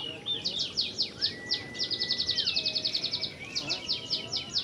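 Oriental magpie-robin (kacer) singing in full voice: a string of quick, sharp chirps, a fast trill of even notes in the middle, and a long level whistle under part of it.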